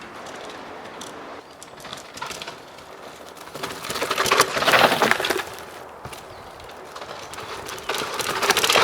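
Dirt jump bike riding down a rooty woodland trail: tyres crunching and crackling over dirt, roots and twigs, with small clicks and rattles. It swells louder in two stretches, about three and a half seconds in and again near the end.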